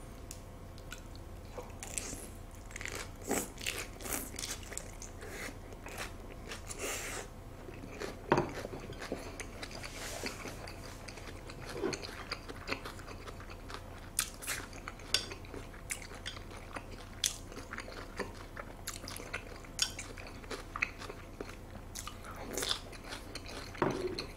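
A person chewing a large lettuce wrap of raw beef yukhoe and salmon, close to the microphone. Irregular crisp crunches of the leaf mix with wet mouth clicks, a few louder bites standing out.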